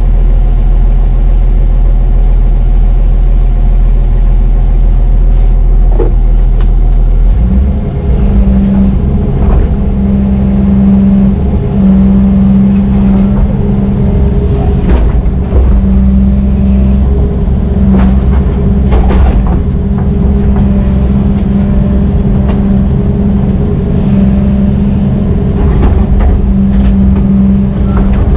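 Heavy diesel engine running steadily, then revving up about seven seconds in and holding the higher speed, with a few short knocks.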